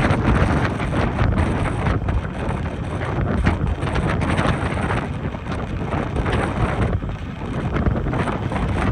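Wind buffeting the microphone: a loud, uneven rush and rumble that surges and eases from moment to moment.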